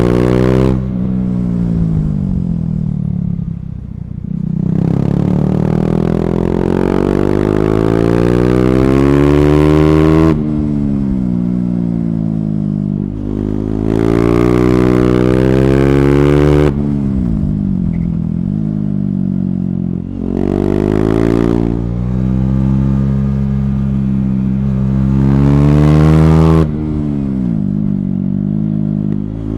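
KTM 390 Duke's single-cylinder engine through an Akrapovic slip-on exhaust with the catalyst removed, pulling hard through the gears. The pitch climbs on each run and the sound cuts off sharply when the throttle snaps shut, about 10, 17 and 27 seconds in, then falls away as the bike slows.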